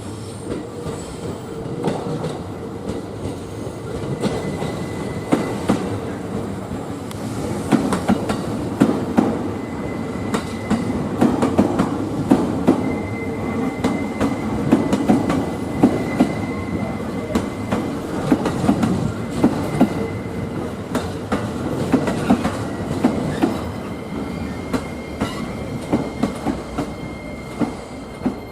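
A train of passenger coaches hauled by a DE11 diesel-hydraulic shunting locomotive rolling through a station yard. The wheels click and clatter over rail joints and points, with a thin, high wheel squeal coming and going over the steady noise of the running train.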